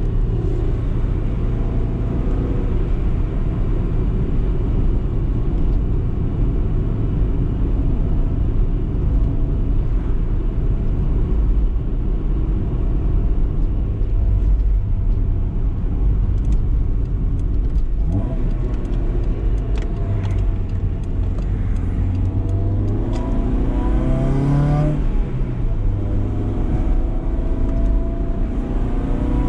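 BMW E30 318is's four-cylinder engine driving along over a steady low road rumble, mostly at an even pitch. In the last third it accelerates: the engine note climbs, drops back, then climbs again near the end.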